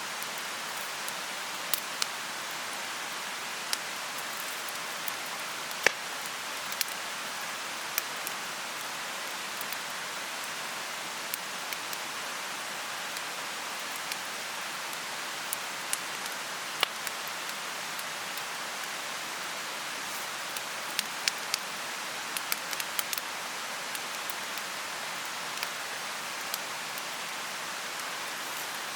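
A mountain stream rushing steadily, with sharp, irregular pops and crackles from a wood bonfire scattered through it and a quick cluster of pops about two-thirds of the way in.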